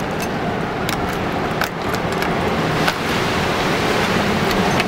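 Strong Santa Ana wind rushing and buffeting the microphone, a steady loud rumbling noise, with a few light clicks over it.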